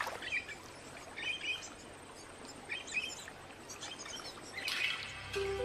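Small birds chirping in short bursts, about five times, over a soft steady outdoor hiss. Music fades in near the end.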